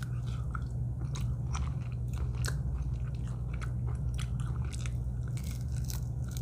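A person chewing and biting into a fried, barbecue-sauced chicken wing close to the microphone, with irregular small crunches and mouth clicks, over a steady low hum.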